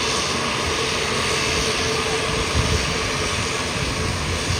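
Narrow-body jet airliner's turbofan engines running, a steady loud rushing noise with a held humming tone underneath.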